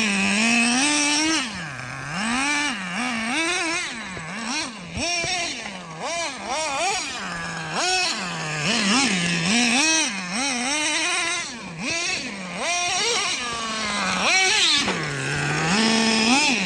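Nitro RC truck's small glow-fuel engine revving up and down over and over as it is driven, its pitch climbing with each throttle burst and dropping back between them.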